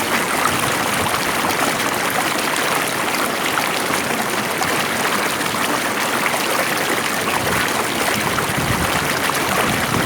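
A stream of water flowing steadily, an even rushing and trickling with no breaks.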